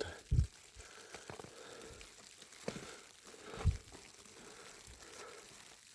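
Crunching and crinkling rustles with two heavy low thumps, about half a second in and again past the middle, like footsteps and clothing moving in snow.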